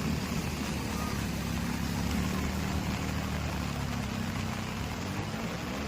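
A vehicle engine running steadily, its pitch rising slightly near the end, under the steady hiss of heavy rain.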